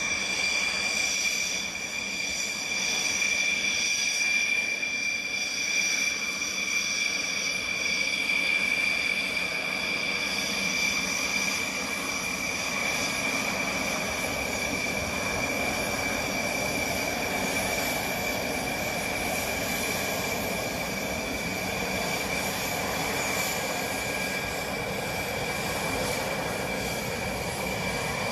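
Rafale fighter jet engines running with a steady high-pitched whine over a rushing hiss, holding level without building up.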